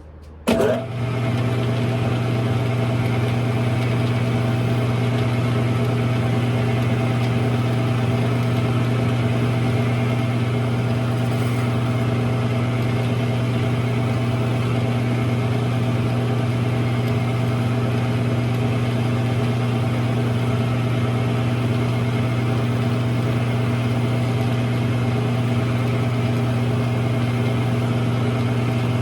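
Smithy lathe's electric motor starting about half a second in, then running at a steady speed with an even hum.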